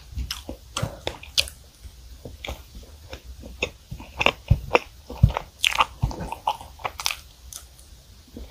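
Close-miked mouth sounds of someone eating chocolate strawberry cream cake: soft, wet chewing broken by many sharp, irregular clicks and smacks.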